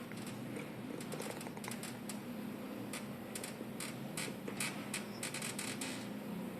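A cat purring, with a run of irregular light clicks and taps from about a second in until near the end.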